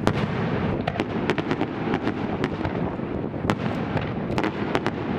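Fireworks display: a rapid, irregular string of sharp crackling bangs over a continuous low rumble of shell bursts, with no pause.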